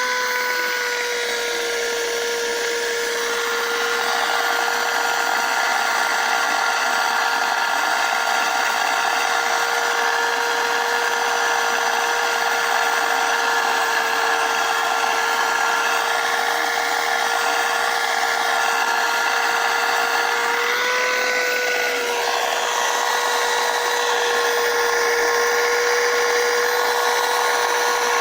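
Dirt Devil Vibe corded stick vacuum cleaner running steadily: a high motor whine over rushing air. The whine briefly rises in pitch about 21 seconds in, and the sound of the air changes then and again about 4 seconds in.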